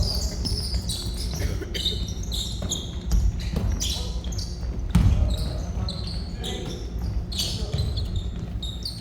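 Basketball game in a gym: a ball bouncing on the court with sharp thuds, loudest about three and five seconds in, and sneakers squeaking on the floor throughout, with players' voices.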